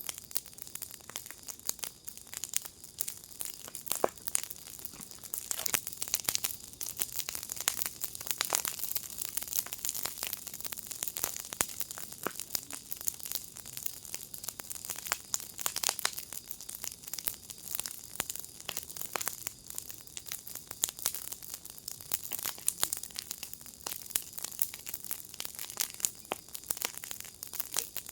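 Wood fire in a firepit crackling: a steady hiss with dense, irregular pops and snaps, a few sharper ones standing out.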